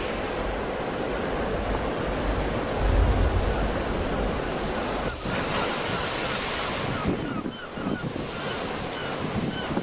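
Sea waves breaking and washing on the shore, a continuous rushing that swells about three seconds in, with wind buffeting the microphone.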